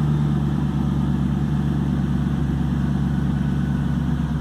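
2003 Roush Stage 3 Mustang's V8 idling steadily, still cold, about half a minute after a cold start.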